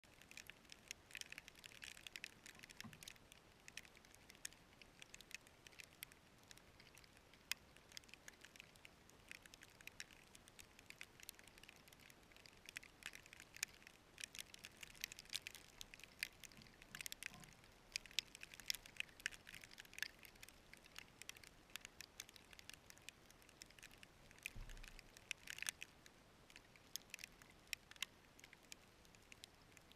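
Falling snow pattering: faint, irregular ticks of snow striking, coming in thicker flurries every few seconds, with a few soft low thumps.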